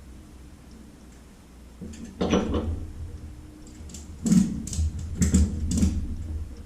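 A series of knocks and clunks, about half a dozen, starting about two seconds in, over a low steady hum.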